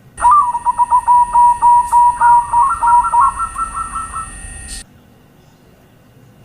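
Zebra dove (perkutut) cooing: a rapid staccato run of short notes, several a second, that weakens and then cuts off abruptly about three-quarters of the way through. A steady high whine in the recording runs under the calls and stops with them.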